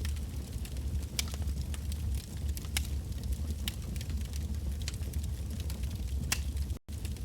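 Wood bonfire burning, with irregular sharp crackles and pops over a steady low rumble. The sound cuts out for a split second near the end.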